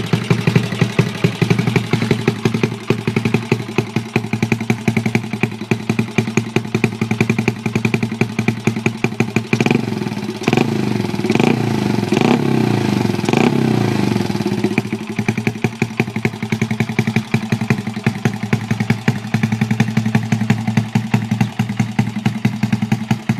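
Small single-cylinder four-stroke motorcycle engine, a Honda Wave 100 engine in a Honda Chaly minibike, idling with a steady rapid exhaust beat. About ten seconds in the throttle is blipped several times, the revs rising and falling, before it settles back to idle.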